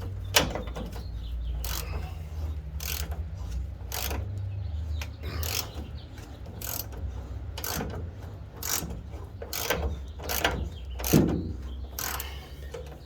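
Hand socket ratchet clicking in short, irregular strokes as the bumper mounting bolts are backed out, with a steady low hum underneath.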